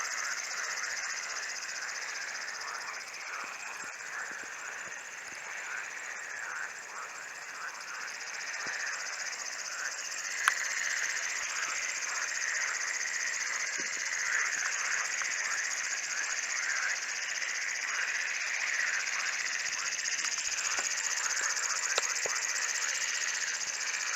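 Outdoor nature ambience: a steady, fast-pulsing chorus of crickets or similar insects, over a dense layer of many short chirping calls from frogs or birds. A couple of sharp clicks sound, about ten seconds in and again near the end.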